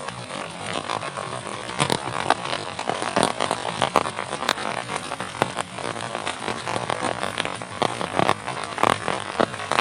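Heavy rain pouring steadily, with many sharp, irregular drop strikes on a nearby surface.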